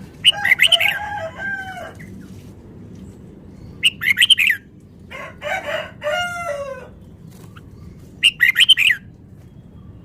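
Red-whiskered bulbul singing in four short phrases of quick, bubbling whistled notes, the last about a second and a half in from the end.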